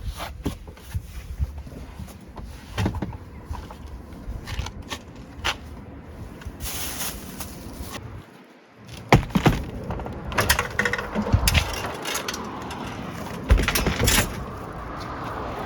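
Objects being handled: scattered clicks, knocks and rustling, with a louder run of clattering knocks in the second half.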